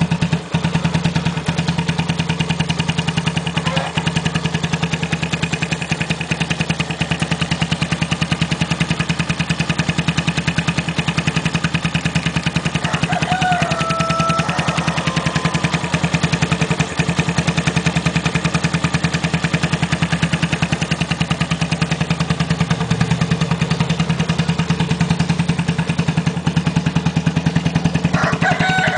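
Bashan 150's engine idling steadily through a custom muffler, with an even, rapid exhaust pulse. A short stepped tone sounds briefly about 13 seconds in and again near the end.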